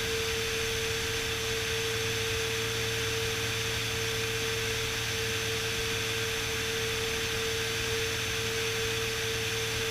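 Steady drone of a Beechcraft Bonanza S35's engine and airflow in flight, heard through the intercom, with a steady mid-pitched hum over it.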